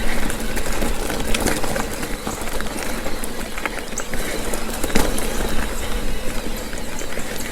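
Mountain bike rolling along a damp dirt singletrack: a steady rush of tyre and trail noise full of small clicks and knocks, with a sharper knock about five seconds in, and wind rumbling on a helmet-mounted action camera's microphone.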